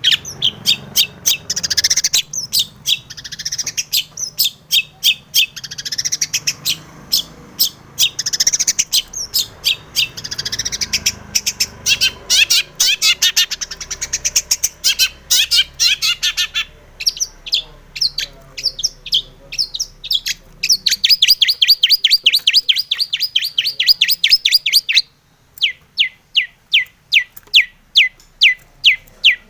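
Long-tailed shrike (cendet) singing a fast, varied chattering song of short high notes. About two-thirds of the way in it runs into a quick, even trill. Near the end it gives sharp single notes, about two a second.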